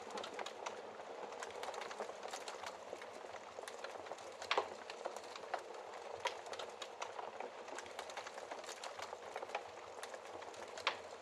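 Wood fire burning in a fireplace: a steady hiss with constant small crackles, and a louder pop about four seconds in and another near the end.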